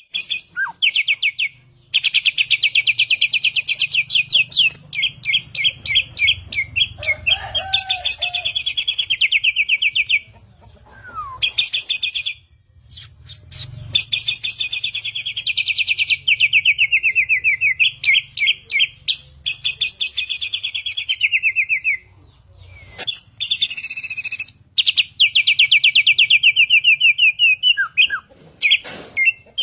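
Samyong songbird singing continuously: long phrases of rapid, repeated trilling notes, broken by a few short pauses.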